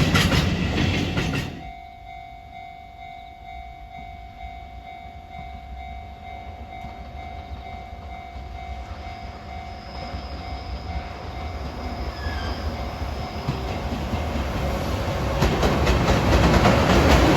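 A freight train's wagons rattling past on the track cut off about a second and a half in. After a quieter stretch with a faint steady tone, the next freight train's noise builds up gradually and passes loudly near the end.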